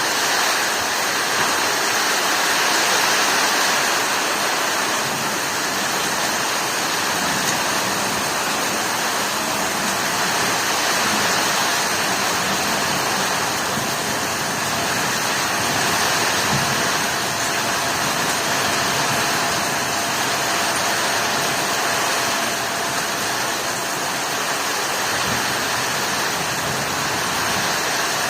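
Heavy rain pouring down in a storm, a steady, even rush of water.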